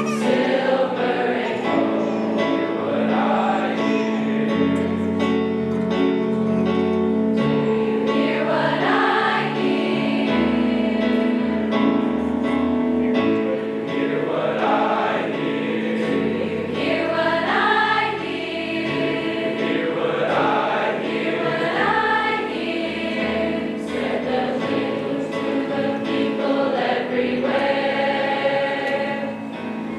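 A high school choir singing, with long held notes.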